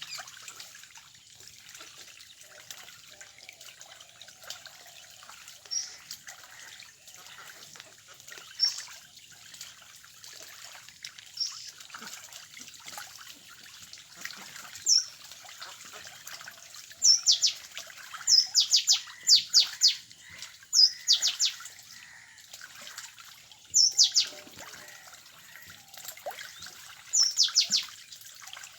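Birds chirping: short, high, falling chirps, a few single ones at first, then quick runs of several at a time from a little past halfway, over a faint steady background hiss.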